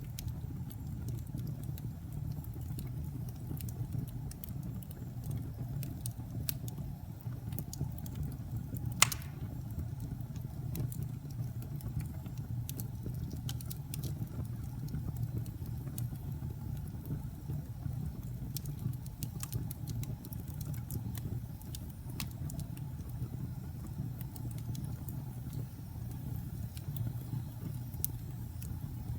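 Log fire burning in a fireplace: a steady low roar of flames with frequent small crackles and pops, one sharp pop about nine seconds in.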